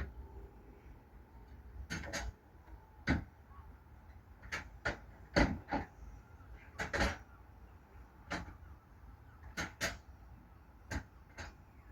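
Sharp clacks, several in close pairs a fraction of a second apart, over a steady low rumble: railway carriage wheels running over rail joints.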